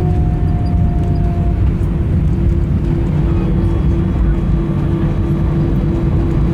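Airbus A320 cabin noise on the ground just after landing: a steady low rumble of the engines and the rolling airframe, with a steady hum. A fainter engine whine falls slowly in pitch and fades out about a second and a half in.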